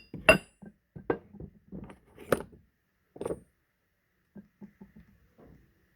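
Small metal parts clinking and knocking together as they are handled, a string of sharp taps, several with a short metallic ring, dying down to light ticks in the last couple of seconds.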